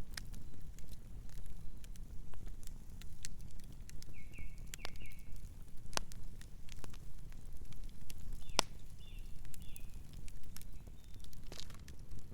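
Campfire crackling, with irregular sharp pops over a low steady rumble. A bird chirps softly in two short runs of notes, about four and nine seconds in.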